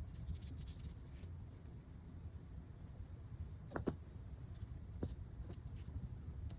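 Faint sounds of small hand work: soft scraping and a few light, sharp taps of small parts being handled, over a low steady hum.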